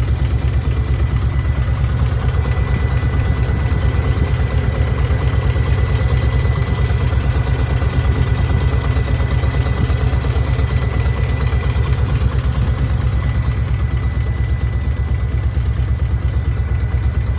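Nissan KA24E 2.4-litre inline-four idling roughly, with a steady, uneven low pulsing and a faint steady high tone. The owner traced the rough idle to leaking fuel-injector seals, flagged by ECU code 45 for an injector leak.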